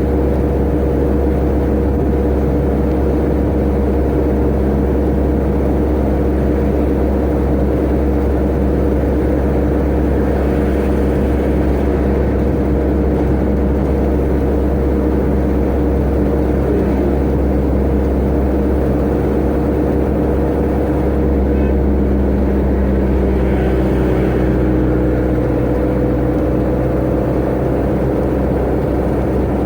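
Tata Ace mini-truck's engine and road noise heard from inside the cab, a steady drone at high speed. Its pitch rises slightly a little over twenty seconds in.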